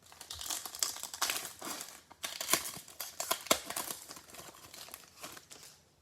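Plastic wrapper of a trading-card pack being crinkled and torn open, with a continuous run of crackling and rustling.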